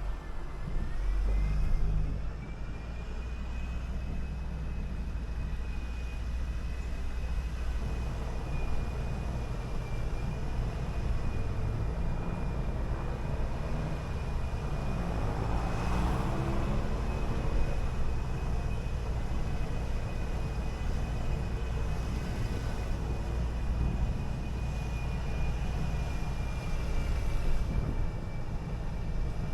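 City bus under way: steady low engine and road rumble with a thin, constant high whine over it. About halfway through, something passes close by, swelling and fading.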